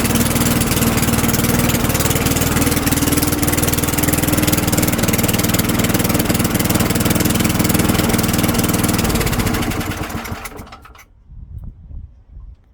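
Tecumseh four-stroke lawn mower engine running steadily on a Sears Craftsman Eager 1, freshly filled with oil. About nine seconds in it is shut off and winds down, stopping within about two seconds, with a few faint clicks after.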